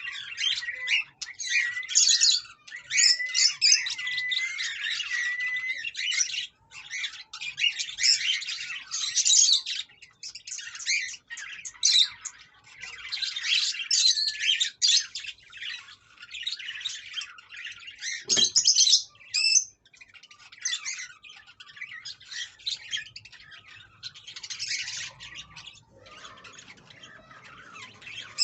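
Aviary birds chirping and squawking almost without pause in high-pitched bursts, with a cockatiel whistling a wavering tune over them for the first few seconds.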